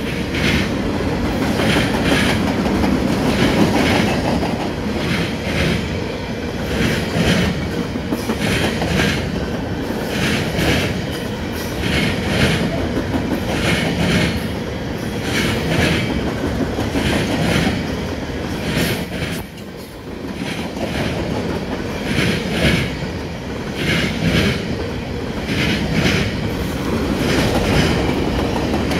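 Freight train cars rolling past: a steady rumble of steel wheels on rail, with a regular clickety-clack as each car's wheel sets cross the rail joints.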